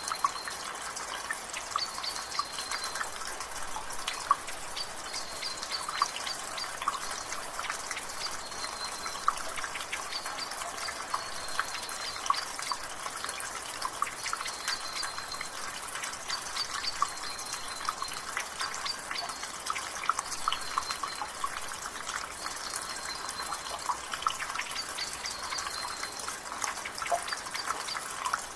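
Water dripping from a rain gutter: many irregular drops over a steady hiss of rain. A bird repeats a short, high call every two or three seconds.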